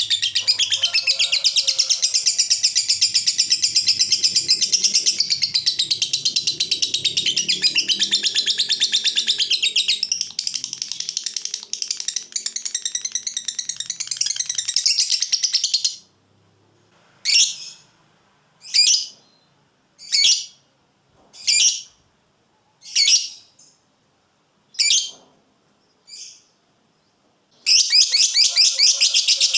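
Lovebird ngekek: a long, very fast chattering trill. It breaks off after about sixteen seconds into a string of short single calls about a second and a half apart, and the rapid trill starts again near the end. This long unbroken chatter is the song that lovebird keepers prize and play as a master recording.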